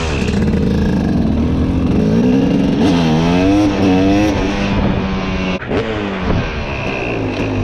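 Vehicle engines passing close by. One engine revs up and down in pitch a few seconds in, and there is a brief break in the sound near the three-quarter mark.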